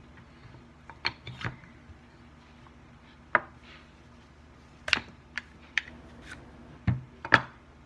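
Irregular sharp clicks and knocks of an apple being worked with a push corer and a knife, the tools and fruit striking the board beneath; the loudest knock comes near the end.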